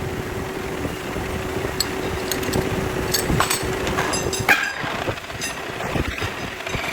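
Metalworking machinery in a workshop running with a steady hum that cuts out about four and a half seconds in, amid scattered metallic clinks.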